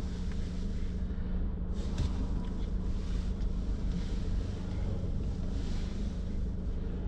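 Car driving along, with a steady low engine and road rumble and some wind hiss.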